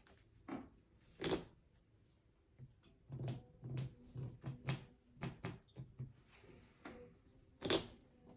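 Trading cards being handled and set down on a table: an irregular series of short taps and slides, with louder ones about a second in and near the end.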